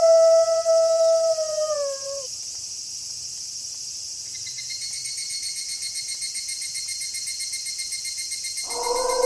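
A wolf's long howl, held on one pitch, dips slightly and dies away about two seconds in. Insects chirr steadily throughout, a pulsing high chirp joins about halfway, and a second, lower howl begins near the end.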